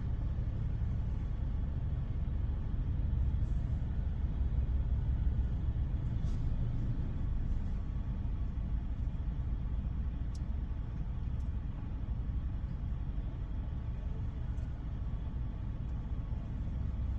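Steady low rumble of a vehicle idling, with a faint hiss and a few light clicks over it.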